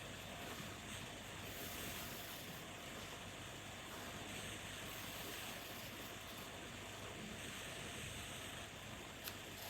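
Faint steady background hiss, with one small click near the end.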